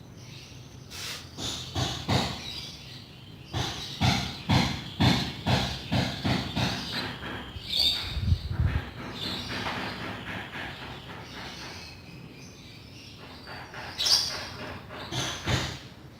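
Irregular knocks and scrapes, about one or two a second, easing off for a moment about twelve seconds in. A bird chirps about eight seconds in and again near the end.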